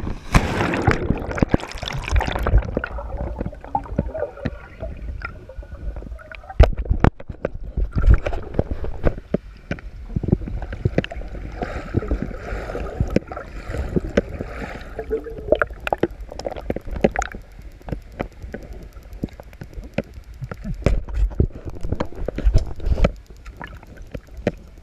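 Water sloshing and gurgling, with many irregular knocks and bumps and a low rumble.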